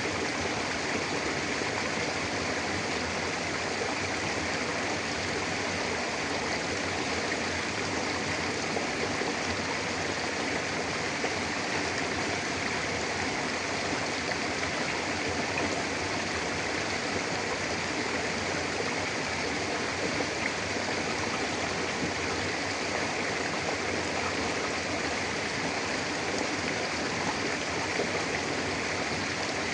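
Mountain river flowing steadily over rocks, a constant rushing and babbling of water with no breaks.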